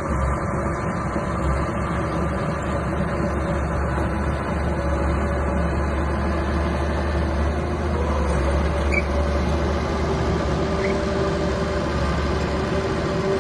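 Small bulldozer's diesel engine running steadily with a continuous low drone.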